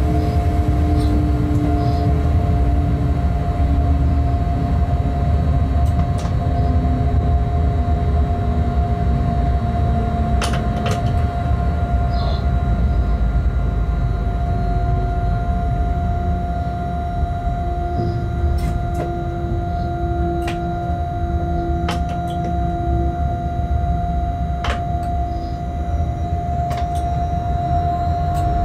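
Freight train heard from inside the locomotive cab while running: a steady low rumble with a constant whine over it. Fainter tones slowly fall in pitch in the first ten seconds, and a few sharp clicks come and go.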